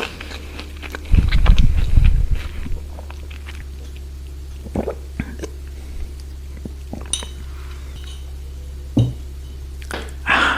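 Close-miked eating: a loud crunchy bite and chewing about a second in, then quieter mouth sounds and a few light clicks, over a steady low hum.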